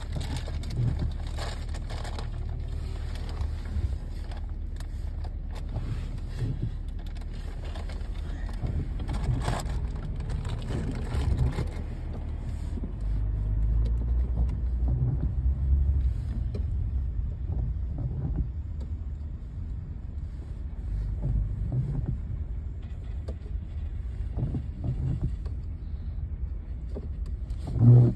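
Car in motion: a steady low road-and-engine rumble that swells for a few seconds midway, with scattered small knocks and a sharp thump near the end.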